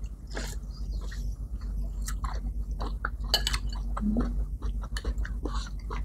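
Two people chewing and eating at close range on clip-on microphones, with irregular short clicks of spoons and forks on plates.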